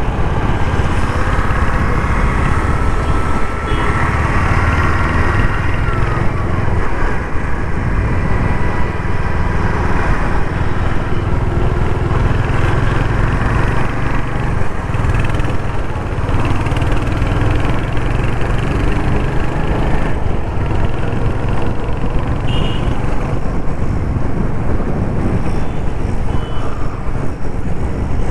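Royal Enfield Hunter 350's 350cc single-cylinder engine running under way as the motorcycle is ridden through city traffic, with other vehicles around it.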